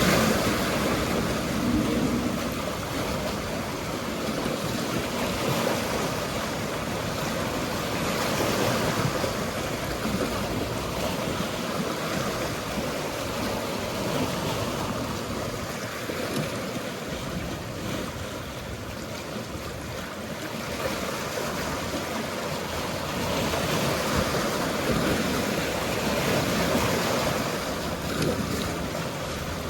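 Mediterranean sea waves washing in steadily, the surf rising and falling every few seconds.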